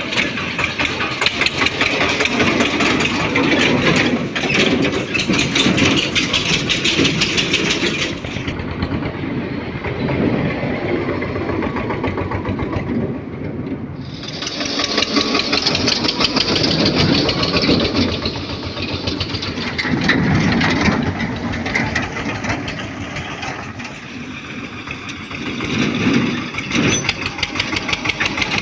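Eicher 242 tractor's diesel engine running with a fast chugging beat, its loudness swelling and easing several times.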